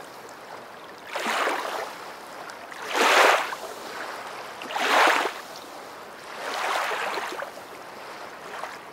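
Small waves lapping at the water's edge in a regular rhythm: four soft swashes of water, about one every two seconds, the middle two the loudest.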